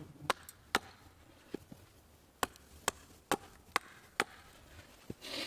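Firewood being chopped with a blade: a series of sharp wooden strikes, a steady run of them at about two a second in the middle, with a brief rustle at the very end.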